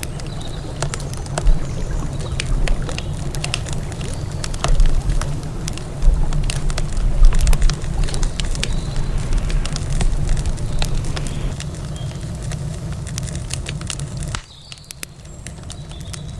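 Wood campfire crackling, with frequent sharp pops and snaps over a steady low rumble. About fourteen seconds in, the rumble drops away suddenly and the sound gets quieter while the crackling goes on.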